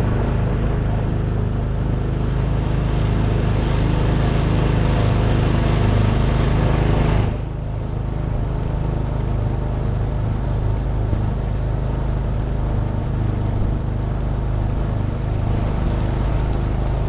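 A small boat's motor running steadily under way, with a constant hiss of water and wind over it. A little over seven seconds in, the hiss suddenly drops and the sound gets slightly quieter, while the motor keeps running.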